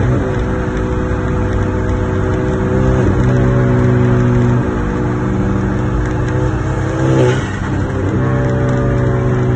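Hyundai Genesis Coupe's 2.0-litre turbocharged four-cylinder engine running while the car drives. The engine note holds steady, then shifts in pitch a few times, about three seconds in, near five seconds and again around seven seconds.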